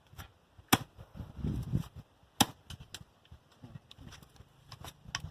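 A digging tool striking into the ground in single blows: three sharp thuds spaced a second and a half or more apart, with lighter scrapes and knocks between them. The blows come from holes being dug for bonfire posts.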